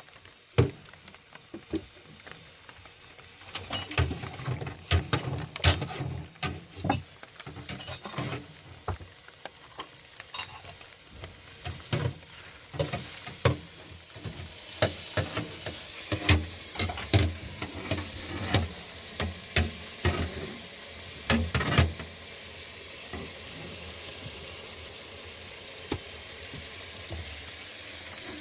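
Food frying in a pan, stirred with a utensil that knocks and scrapes against the pan many times over the first two-thirds. Under it a steady sizzle builds and carries on alone near the end.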